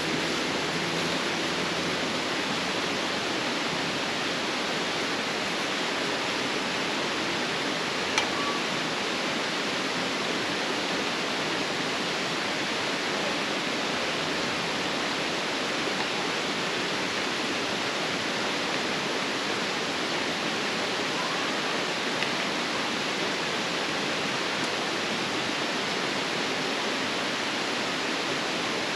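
Steady, even rushing noise, with a faint click about eight seconds in.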